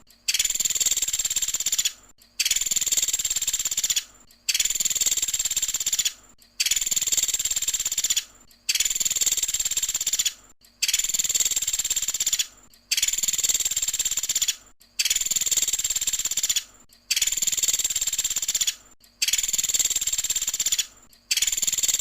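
Pelatuk sampit bird giving its 'tembakan' call, a long, high, rapid-fire trill of nearly two seconds, repeated over and over at an even rhythm of about one call every two seconds with short silent gaps.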